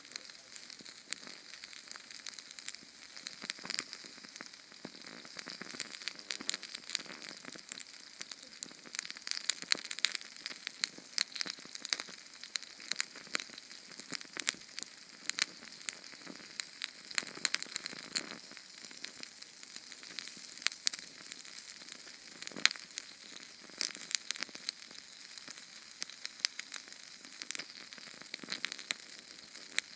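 Small Sterno canned-fuel flame crackling: a steady sizzling hiss with a dense, irregular stream of sharp pops and ticks.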